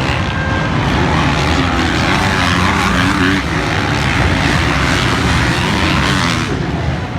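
Motocross bike engines racing, their buzzing pitch rising and falling as the riders work the throttle.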